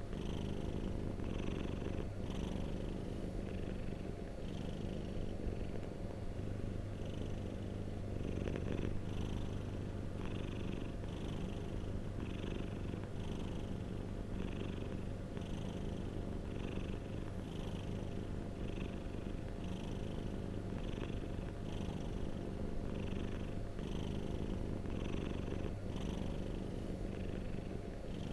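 Domestic cat purring steadily and close up, a continuous low rumble with a faint rasp repeating about once a second.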